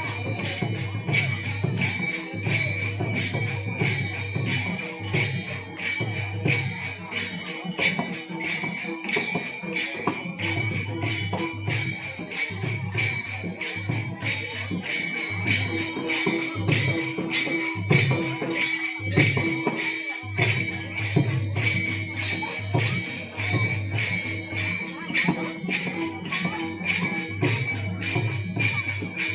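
Devotional bhajan accompaniment: small metal hand cymbals clashing in a fast, even beat over a low drum, with a held tone sounding underneath.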